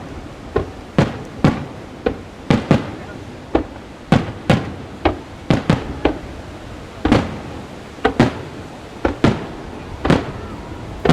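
Aerial fireworks shells bursting in quick succession, about twenty sharp bangs at irregular intervals of roughly half a second, each followed by a short echo.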